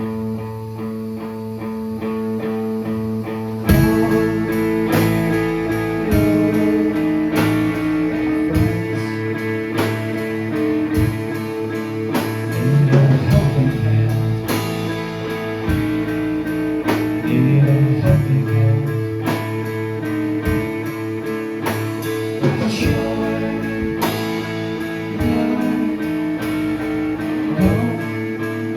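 A rock band playing live: held electric guitar chords ring alone at first, then the full band with drums comes in about four seconds in.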